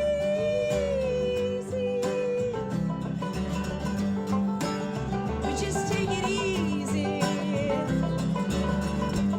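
Acoustic string band playing live: plucked guitar and banjo over a bass line, with long held, sliding melody notes.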